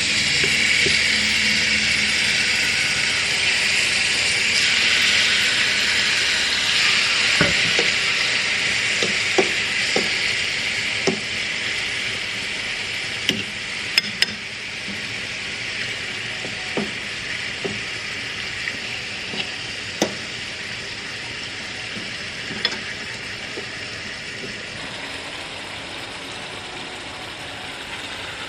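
Chicken frying in hot oil in a pot: a loud sizzle that slowly dies down, with scattered clicks and knocks of a utensil against the pot.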